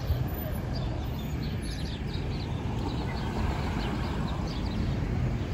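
Small birds chirping over and over in short, high notes, above a steady low rumble of wind and street noise.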